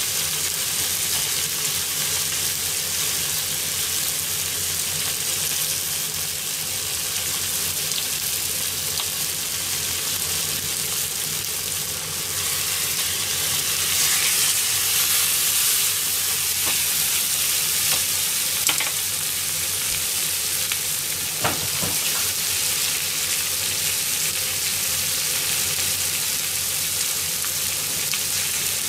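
Bone-in chicken legs and chopped aromatic vegetables sizzling steadily in a heavy black pan. The sizzle grows louder for a few seconds about halfway as the pieces are turned over, and a few light clicks of the utensil against the pan follow.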